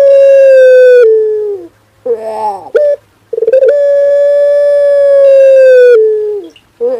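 Male puter dove (Barbary dove) of the long-calling 'pelung' type, cooing: long, drawn-out coos, each held steady for a couple of seconds before stepping lower and trailing off. A short, warbling note follows each coo, about two seconds in and again near the end.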